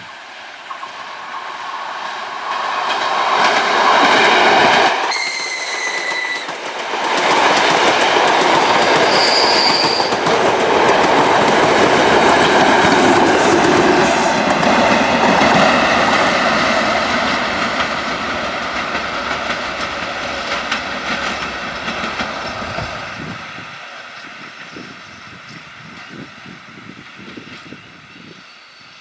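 The DDB1 diesel train, built from 2M62U locomotive sections, passing, with a steady clatter of wheels over the rail joints that builds, stays loud for about fifteen seconds and then fades away. A short, high-pitched horn blast sounds about five seconds in.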